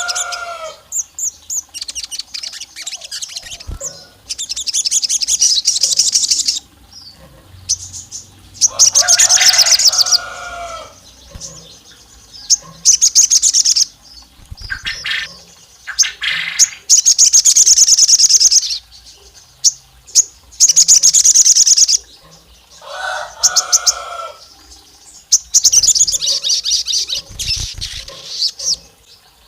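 Crimson sunbird singing in bursts of fast, high trilling, each a second or two long and repeating every few seconds. A lower call on two pitches breaks in about three times. It is the sogon's loud, hard-driven song used to rouse rival males.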